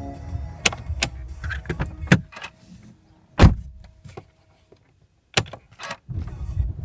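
Porsche Panamera 4S engine running, then shut off about two seconds in, followed by cabin clicks and a loud knock; after a few quiet seconds the engine is started again near the end. The owner is cycling the ignition to clear PSM, chassis and all-wheel-drive fault warnings, which were traced to a failing engine controller that kept half the engine from starting properly.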